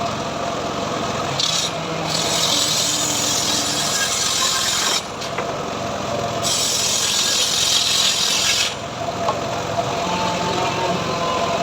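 Homemade engine-driven sawmill cutting teak: the engine runs steadily throughout while the blade's loud hissing rasp through the wood comes in two long stretches, with a short break between them.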